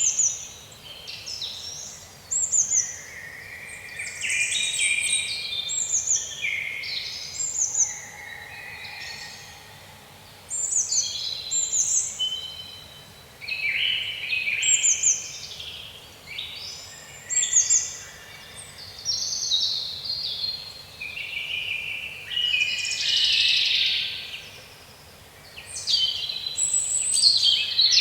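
Songbirds singing in woodland: many short, high, falling whistles and trills, one after another, sometimes overlapping.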